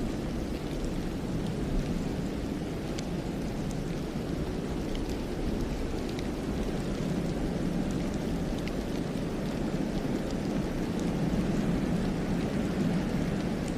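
Wind blowing steadily through a snowy pine forest: an even, low rushing with a few faint scattered ticks.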